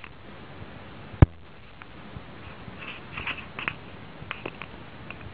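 A single sharp knock about a second in, then scattered faint taps and soft clicks.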